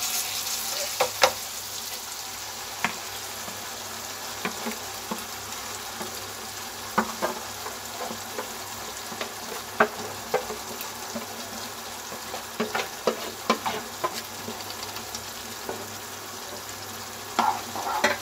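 Tomato-onion masala sizzling in oil in a kadai, a steady hiss, while ground spinach puree is added and a wooden spatula stirs it, knocking and scraping against the pan now and then, with several knocks close together near the end.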